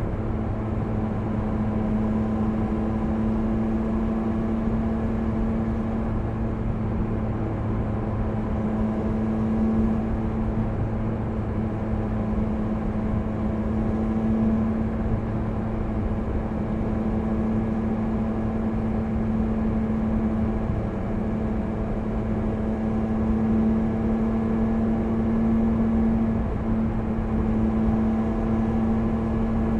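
Triumph Speed Triple 1050 RS motorcycle's three-cylinder engine running at a steady cruise, its pitch holding nearly constant throughout.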